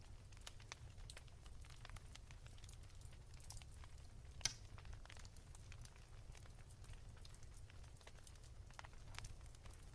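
Wood fire crackling softly: scattered small snaps and pops over a low steady rumble, with one sharper pop about four and a half seconds in.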